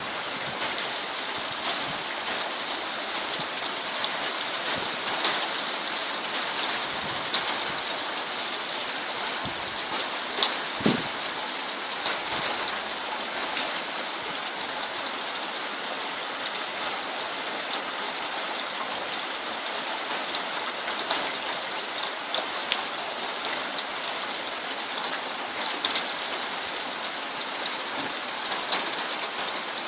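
Steady rain falling, with many single drops striking close by as sharp ticks, and one low dull knock about eleven seconds in.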